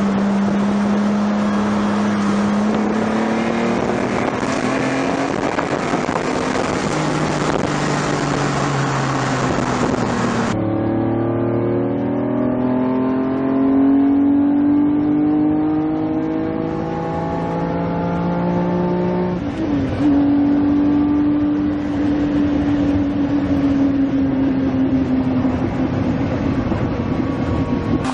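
Lamborghini Diablo V12 engine under acceleration, its note climbing slowly in pitch with a quick drop at a gear change about two thirds of the way in, then easing off near the end. The recording changes abruptly about ten seconds in, as from one take to another.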